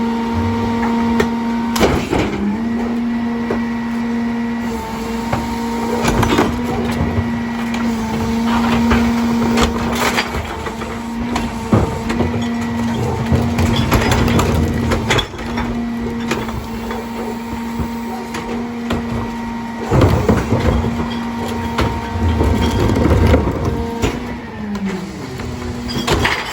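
Mack LR garbage truck's engine held at raised revs to run the Heil DuraPack rear loader's packer hydraulics, a steady hum, with scattered metallic clanks and bangs. Near the end the revs fall away as the packing cycle finishes.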